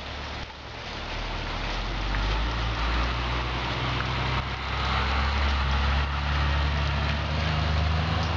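A motor vehicle's engine running close by, its low drone building over the first second or two and then holding steady, over a continuous hiss.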